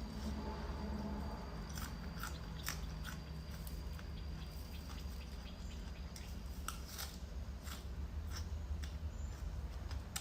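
A person eating seafood with their hands: chewing and wet mouth sounds with scattered sharp clicks, over a steady low hum.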